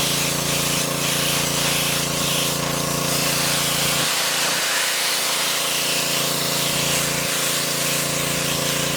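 Gas-powered pressure washer running steadily, its engine hum under the hiss of the water jet spraying.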